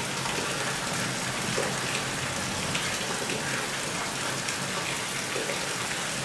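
Steady rain from a thunderstorm passing overhead, falling on a hillside and vegetation.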